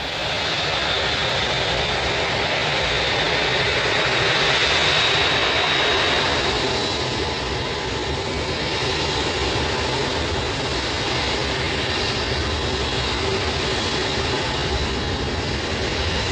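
Jet aircraft engines running: a steady rush of noise with a thin high whine, swelling slightly a few seconds in.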